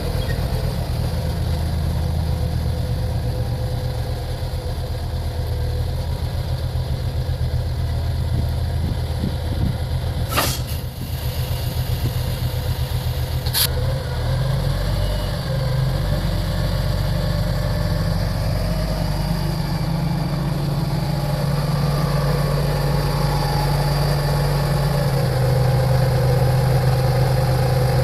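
A heavy vehicle engine running steadily at idle with a deep hum. It changes note about halfway through and grows a little louder near the end. Two sharp knocks come a few seconds apart in the middle.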